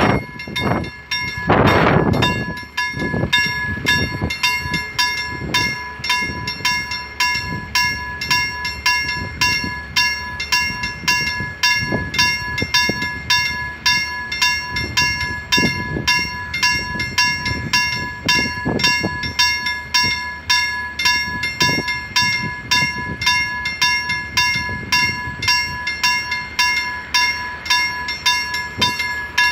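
Freight train wagons rolling past a level crossing, with a low rumble and scattered wheel knocks over the rails, while the crossing's warning bell rings in a steady, regular beat. A louder noisy passage fills the first two seconds.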